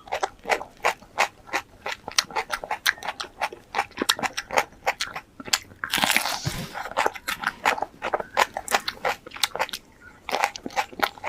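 Close-up crunching and chewing of crisp fresh capsicum (bell pepper), several crisp crunches a second. A longer, denser burst of crunching about six seconds in, likely a fresh bite.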